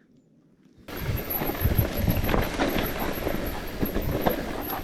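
Near silence for about a second, then suddenly a mountain bike rattling and knocking over a rough descent, with wind on the microphone.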